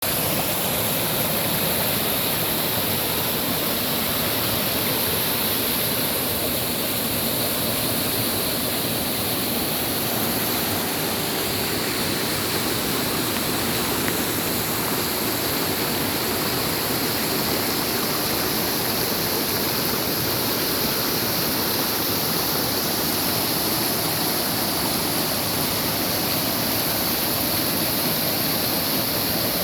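Waterfall pouring, a steady, even rush of water with no breaks.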